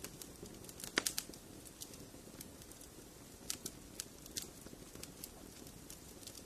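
Wood fire in a fireplace crackling: irregular sharp pops and snaps over the fire's steady low hiss, with a quick cluster of louder pops about a second in.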